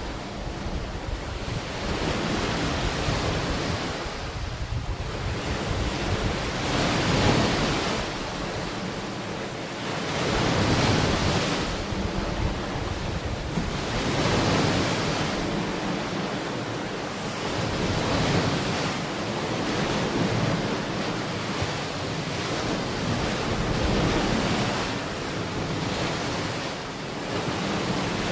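Ocean waves breaking and washing onto a shore in a continuous surf, swelling and falling back every few seconds, with a low rumble from wind on the microphone.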